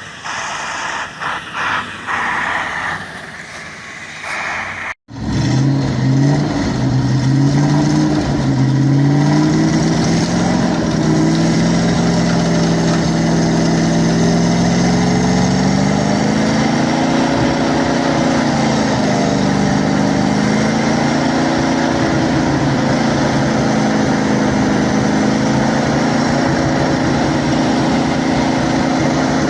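A heavy truck's engine running hard under load, its pitch rising and falling slowly as the revs change. It comes in after an abrupt cut about five seconds in, before which there are scattered knocks over engine noise.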